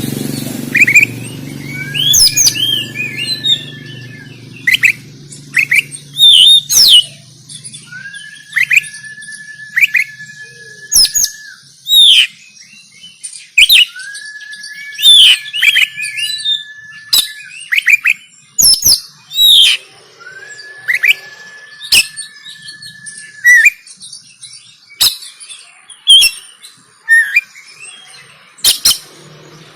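Oriental magpie-robin singing its rapid, agitated fighting song of loud, sharp chirps and quick sweeping notes. Four times it holds a long, steady whistle of about two seconds.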